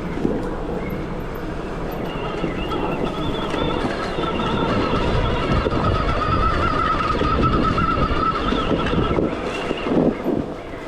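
Stark Varg EX electric dirt bike's motor whining steadily under throttle over a rough rumble and rattle of riding on uneven ground. The whine is strongest in the middle, and there is a loud jolt near the end.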